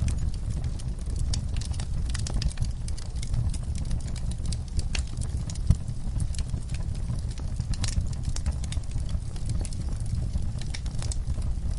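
Wood fire in a fireplace crackling, with irregular sharp pops and snaps over a steady low rumble of the flames; one louder pop about halfway through.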